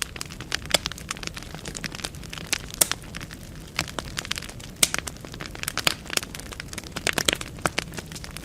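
Wood fire burning in a fireplace: dense, irregular crackling and sharp pops from the burning logs over a faint low rumble of the flames.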